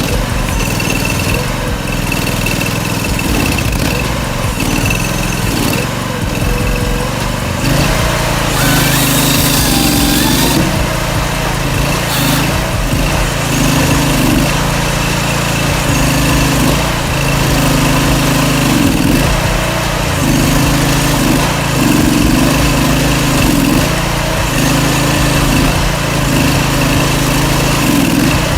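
Small engine-driven forestry cutting machine running steadily; from about eight seconds in its engine note steps up and down again and again as it works through the timber.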